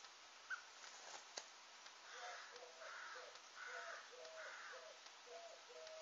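Faint wild bird calls: four harsh, crow-like caws about three-quarters of a second apart, over a faint, low, evenly repeated call. Two sharp ticks come in the first second and a half.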